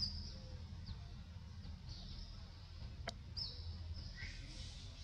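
Small birds chirping now and then in short, high, downward-sweeping notes over a steady low rumble, with one sharp click about three seconds in.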